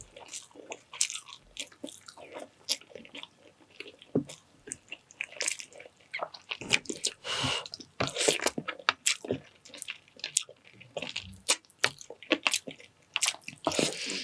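A person chewing and biting food close to the microphone, as in mukbang eating: many short, irregular mouth clicks and smacks, with a denser stretch of chewing noise about halfway through.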